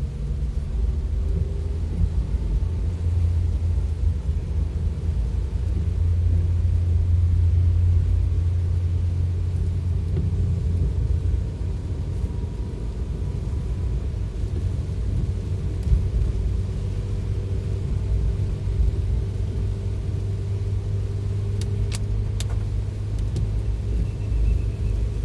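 Steady low rumble of a vehicle driving on a rain-soaked road, with a faint engine hum and a few sharp ticks near the end.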